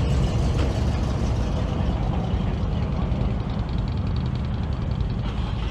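Engines of classic cars idling and running, a steady low rumble.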